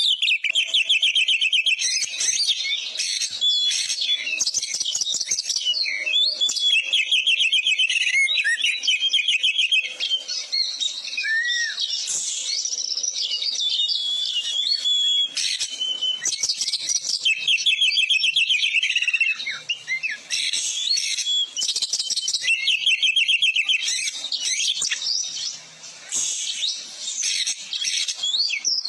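Oriental magpie-robin (kacer) singing in full song: a continuous, rapid, varied stream of trills, chattering runs and whistled phrases, with imitations of other birds' calls worked in. A short lull comes about three-quarters of the way through.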